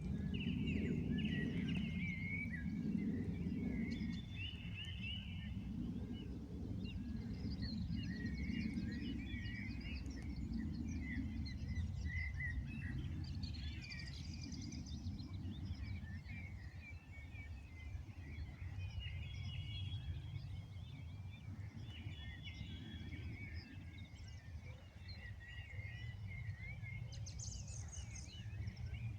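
Many small birds chirping and twittering without pause, with short calls overlapping one another, over a steady low background rumble.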